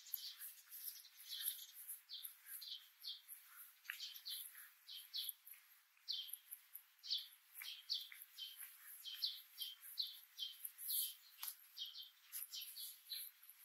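Small birds chirping: a quick run of short, repeated notes, two or three a second, with fainter higher chirps over them.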